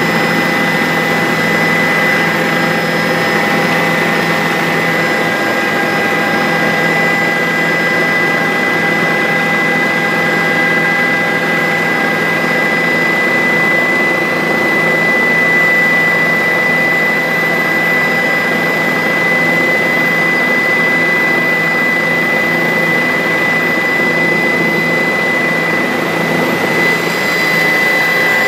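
Bell 407 helicopter in steady flight: the turbine engine's constant whine, with several steady tones over an even noise, neither rising nor falling.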